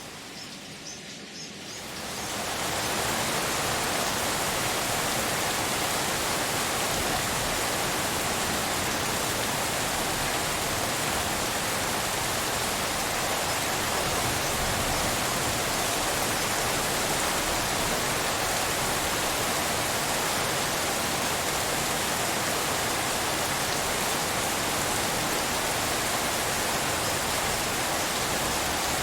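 Steady rain sound blended with pink noise, an even hiss with no distinct drops or thunder. It is quieter for the first two seconds and swells to full level about two seconds in.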